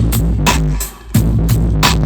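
Reggae/dancehall music played loud through a mobile sound system, with a heavy bass line and sharp drum hits. The music drops out briefly about a second in, then comes back.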